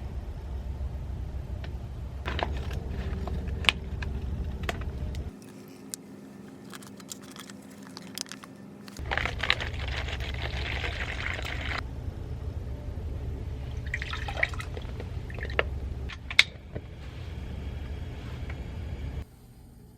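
Liquid being poured, with scattered clicks and knocks of handling over a steady low rumble that cuts out abruptly twice.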